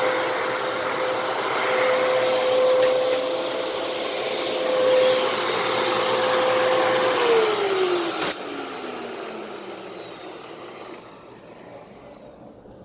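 Fantom Fury vacuum cleaner running with a steady motor whine and rush of air, then switched off about seven seconds in: the motor's pitch falls as it spins down and the air noise dies away.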